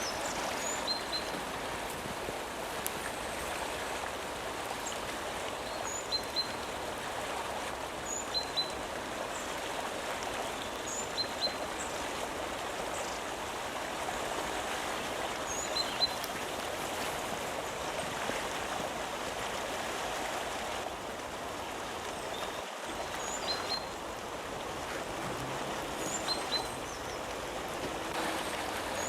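Steady rushing of a stream, with short high chirps, often in pairs, every couple of seconds.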